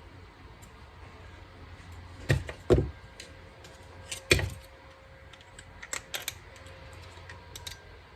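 A few sharp knocks and clicks from hand tools and small parts being handled and set down on a workbench. The loudest come as two knocks close together and a third a moment later, followed by lighter clicks.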